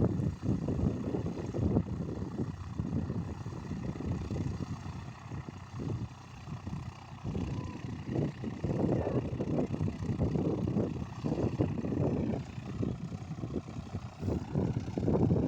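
Cessna 152's four-cylinder Lycoming engine and propeller droning steadily, with an uneven, gusting rumble of wind on the microphone over it.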